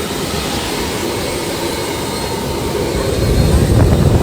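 Steady jet engine noise heard from inside a private jet's cabin, with the low rumble growing louder about three seconds in.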